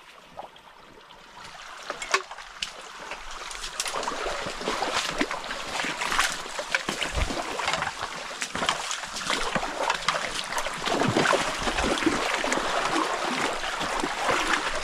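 Shallow stream water rushing and splashing, growing louder from about a second and a half in, with many small splashes running through it.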